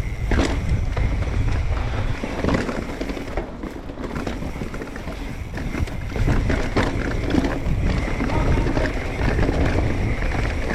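A mountain bike descending a rocky singletrack at speed: wind buffeting the microphone as a steady low rumble, under frequent knocks and rattles from the tyres and bike hitting rocks.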